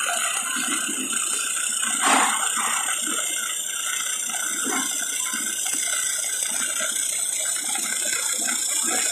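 Steady hiss of workshop machinery with irregular light mechanical clicking and rattling, and one louder sharp clack about two seconds in.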